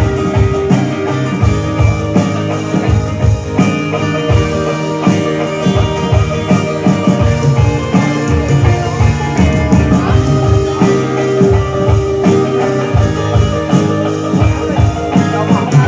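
Instrumental break of a rock song: electric guitar and bass over a steady drum-kit beat, with no vocals.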